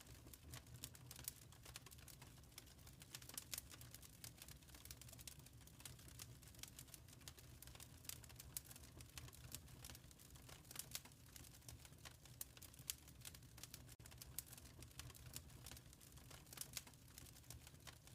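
Fireplace fire crackling quietly: many irregular small snaps and pops over a steady low rumble of the flames.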